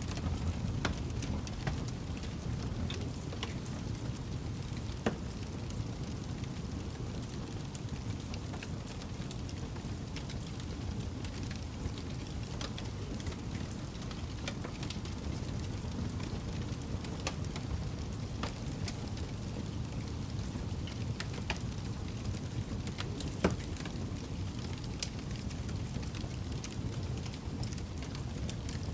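Campfire burning: scattered crackles and pops over a steady low rumble of flames, with two louder pops, one about five seconds in and one near the end.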